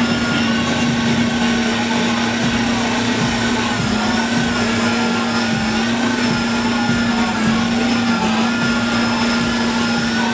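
An engine holding one steady, high-pitched note at constant revs, with fainter higher tones wavering slightly above it.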